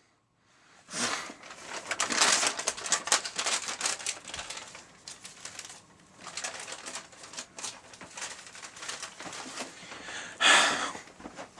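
Paper bag puppets being handled, the paper rustling and crinkling in irregular crackles for most of the stretch, followed by a short, louder hiss near the end.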